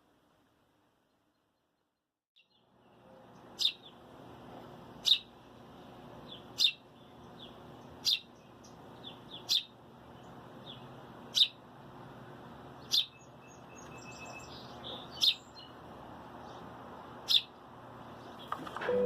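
Injured baby bird chirping: sharp single chirps about every second and a half, with fainter chirps between, starting about three seconds in over a steady background hiss.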